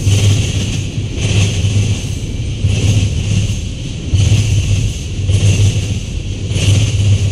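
Freight train cars (tank cars and boxcars) rolling past on steel wheels: a steady low rumble with a rhythmic clatter that swells about every second and a quarter as the wheel sets pass.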